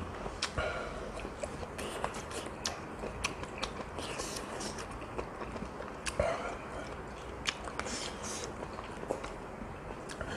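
Close-miked eating: a person chewing a mouthful of Korean offal stew of pork intestines and heart, with many small, sharp, irregular mouth clicks.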